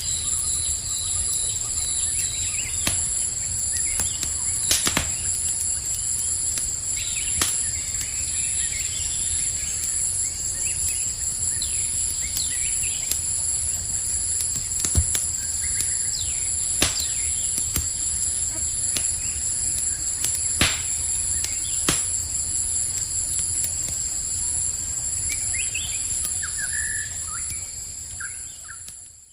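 Campfire crackling, with about a dozen sharp pops spread through, over a steady high-pitched chorus of night insects and a few short bird chirps. Everything fades out just before the end.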